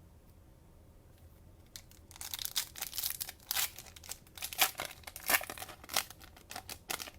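Cellophane wrapper of a trading-card cello pack being torn open and crinkled. A quick run of sharp crackles starts about two seconds in.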